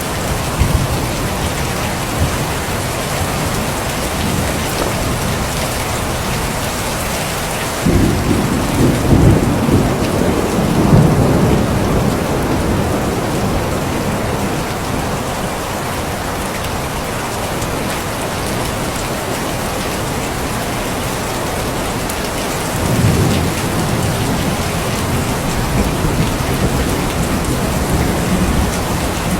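Steady heavy rain falling, with two long low rumbles of thunder: one starting suddenly about a quarter of the way in and fading after several seconds, another building near the end.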